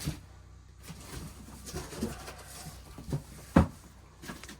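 Handling noise from a boxed model train accessory: soft bumps and rustles, with one sharp knock about three and a half seconds in.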